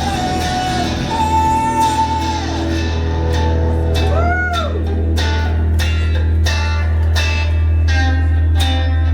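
Live rock band music: long held notes over guitar and a steady low bass drone, then strummed guitar chords at about two to three strokes a second.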